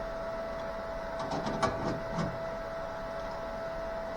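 A steady electrical hum from shop equipment, with a few light metallic clicks and scrapes about a second in as clamps are pulled off the freshly tacked sheet-metal panel.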